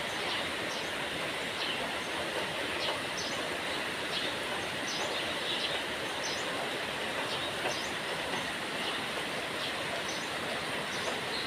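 Steady soft rain falling, an even hiss, with short high chirps scattered through it, about one or two a second.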